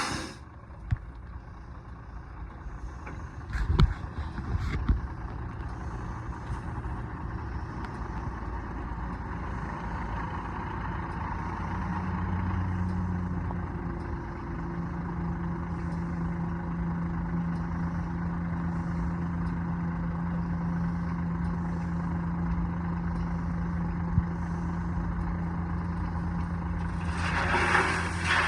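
International single-axle dump truck's engine running, with two sharp knocks about four and five seconds in. Near twelve seconds the engine speeds up and then holds a steady, higher note, as the truck dumps its load of gravel, and a brief rush of noise comes near the end.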